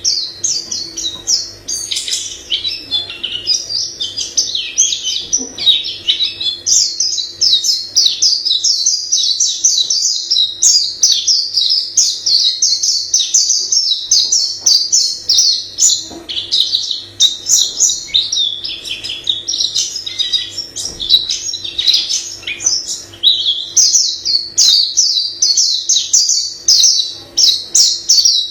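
A white-eye singing a long, fast, varied song of high twittering notes with hardly a pause. A faint steady hum lies underneath.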